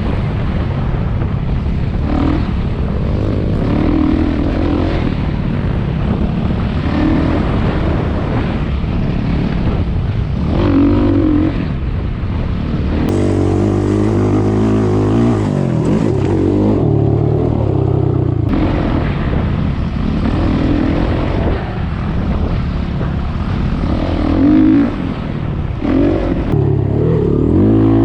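Single-cylinder off-road engine running under riding, its revs rising and falling repeatedly with the throttle.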